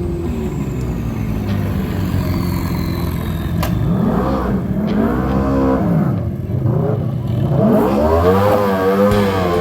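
A car engine revving hard, its pitch swinging up and down several times, as in a drift or stunt run.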